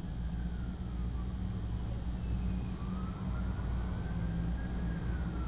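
Steady low hum, with a faint siren wailing slowly up and down twice behind it.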